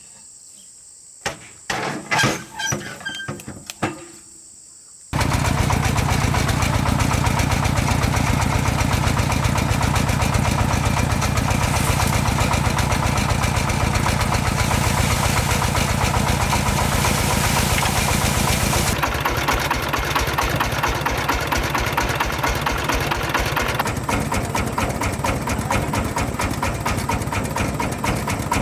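A few knocks and clicks, then a small motor starts abruptly about five seconds in and runs steadily with a fast, even chatter. Its tone shifts twice later on.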